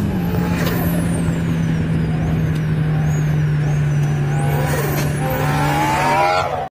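Lowered Toyota 86 sports car driving on the road, its flat-four engine running at steady revs as a constant drone.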